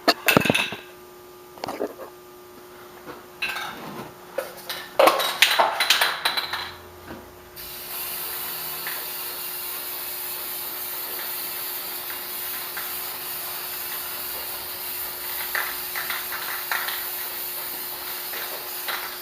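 A few knocks and clatters of handling, then a Krylon clear acrylic aerosol can spraying a clear coat onto scroll-sawn wood: a steady hiss that starts about a third of the way in.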